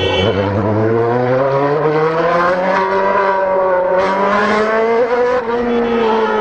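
Motorcycle engine pulling hard: its pitch climbs over the first two seconds or so and then holds at high revs, with a brief dip about five seconds in.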